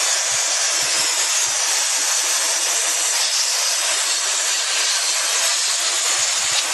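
K&F Concept BS400 cordless electric air duster running steadily at speed, its high-speed motor and airflow making an even, high-pitched airy rush.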